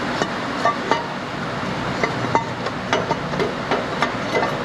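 Metal exhaust manifold knocking and clinking against the engine bay as it is worked out of a Dodge Ram 5.7 Hemi past the dipstick tube: about a dozen light, irregular metallic knocks, some briefly ringing, over a steady background hiss.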